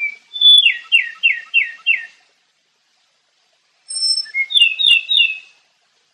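A songbird singing two short phrases: first a quick run of five descending slurred whistles, then after a pause two high thin notes leading into a few quick paired notes.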